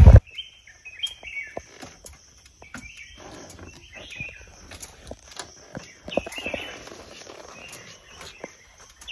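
Birds chirping in forest, short chirping phrases coming again every second or two, over a steady high-pitched hum, with scattered light clicks.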